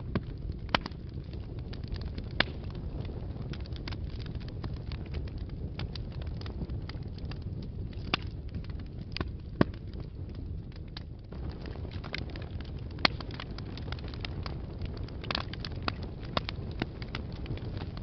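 Wood fire burning in a fireplace: a steady low rumble with frequent small crackles and a few louder, sharp pops scattered through.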